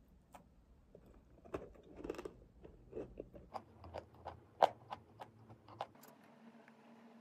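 Close-up chewing of a chocolate-coated bread: a run of short, crisp crunches and mouth clicks, the loudest one a little past halfway. Near the end it gives way to a faint steady hum.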